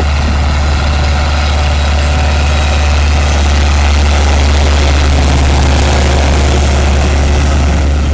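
Ursus tractor diesel engine running steadily with a strong low drone.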